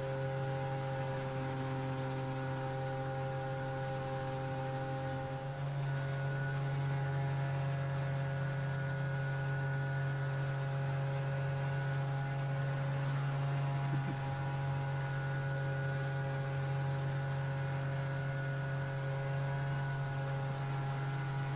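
Outboard jet motor of an inflatable river jet boat running steadily under way, a constant low drone whose pitch steps up slightly about five seconds in as the engine speed rises.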